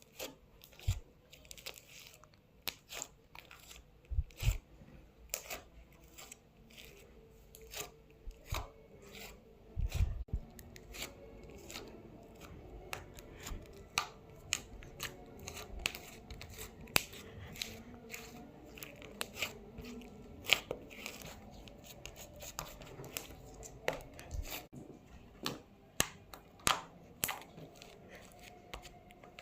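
Close-miked ASMR handling sounds: a run of irregular crisp clicks and taps, with a few soft low thumps.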